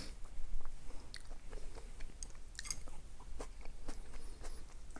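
Close-up eating sounds: chewing and biting, with many sharp mouth clicks and a few crunches scattered irregularly.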